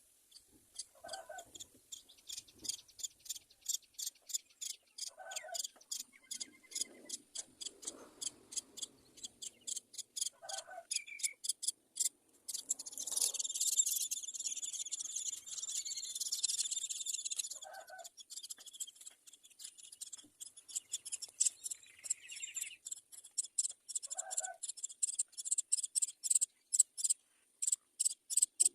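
Birds chirping: a rapid series of short, high chirps, about two or three a second, that thickens into continuous chirping for a few seconds in the middle, with five short lower calls spaced several seconds apart.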